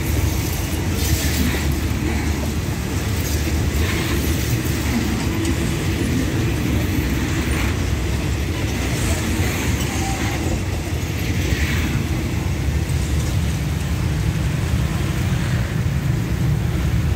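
Passenger coaches of a diesel-hauled express train rolling past on the rails: a steady low rumble of wheels on track, with a few brief clatters along the way.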